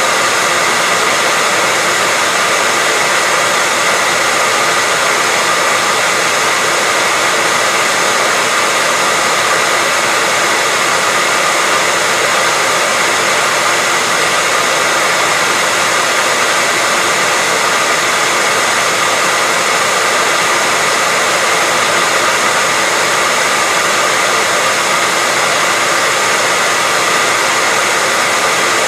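Hair dryer blowing steadily: an even, unbroken whoosh of air with a faint high whine from the fan motor, never changing.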